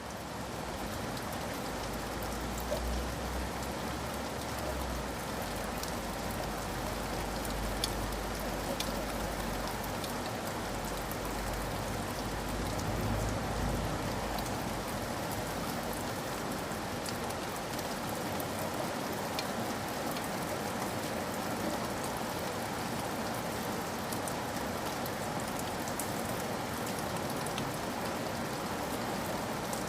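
Steady rain falling, with scattered individual drop taps standing out, and a low rumble underneath for roughly the first half.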